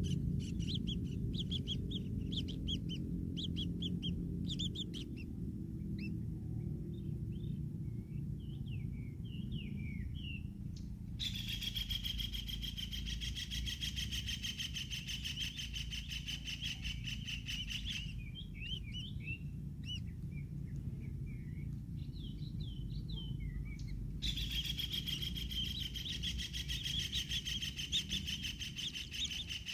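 Birds chirping and calling in short, sweeping notes, broken by two long bouts of a fast, rasping buzz lasting several seconds each, over a steady low rumble.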